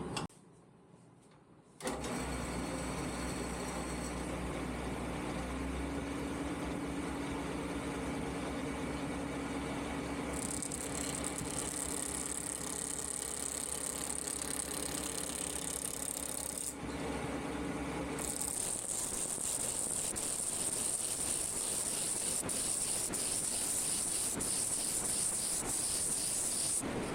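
Shopsmith lathe running, starting abruptly about two seconds in, with a turning tool cutting a spinning spalted maple blank in two long stretches of hiss, roughing it down to a cylinder.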